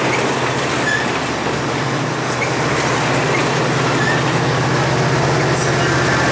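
A diesel-hauled train rolling past close by: a loud, steady rumble of wheels on rail with a low engine drone underneath.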